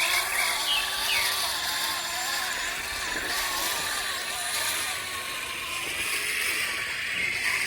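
Small electric motor and gears of a radio-controlled toy construction vehicle whining, the pitch wavering up and down as it runs.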